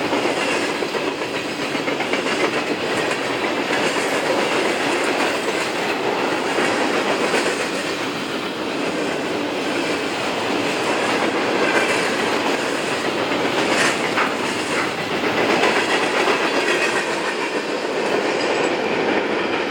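Freight cars of a CSX freight train rolling past at steady speed: a continuous loud noise of steel wheels on rail.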